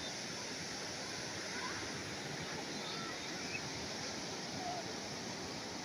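Calm sea waves washing steadily on the shore, with a few faint short chirps or distant voices scattered through.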